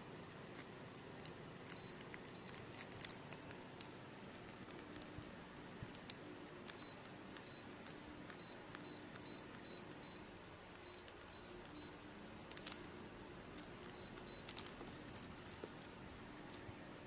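Short, high electronic beeps, more than a dozen in irregular runs and pairs, with faint clicks between them: a dehumidifier's control panel beeping as its buttons are pressed.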